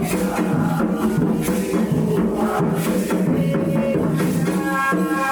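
Live Candomblé ritual music: hand drums struck in a steady rhythm with a shaker or rattle, over sustained pitched voices or instruments.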